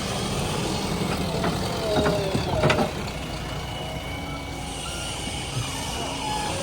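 Diesel engine of a JCB 3DX backhoe loader running steadily under work, with a couple of sharp knocks about two and a half seconds in.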